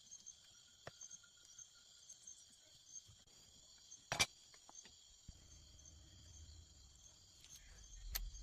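Steady high-pitched chorus of crickets or similar insects, with a sharp click about four seconds in and another near the end, over a low rumble in the second half.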